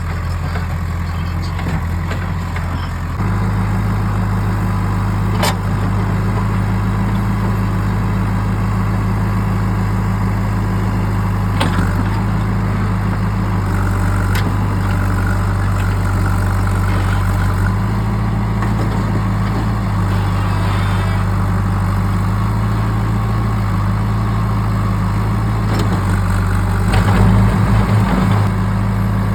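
Diesel engine of a JCB 3DX backhoe loader running steadily as it loads mud, stepping up to a higher, louder speed about three seconds in. A few sharp knocks come through, and the engine note turns uneven near the end.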